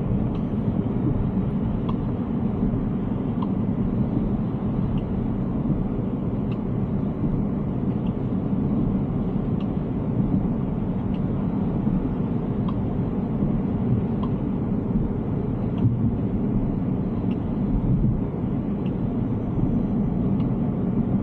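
Steady low road and tyre rumble from the electric Tesla Cybertruck driving at speed, with a faint tick about every second and a half.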